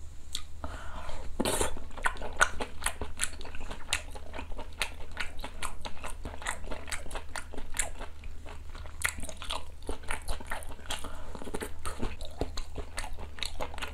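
A person chewing mouthfuls of soondae hot pot close to the microphone: many irregular wet mouth clicks and smacks.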